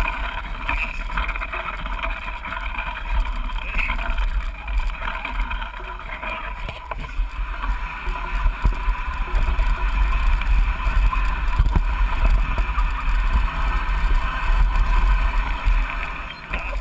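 Wind buffeting the action camera's microphone in an uneven low rumble over a steady rushing noise, growing louder about halfway through.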